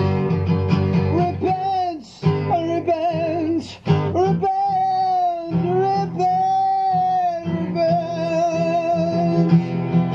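Unplugged song: a woman sings long held, wavering notes over acoustic guitar, with brief pauses between phrases.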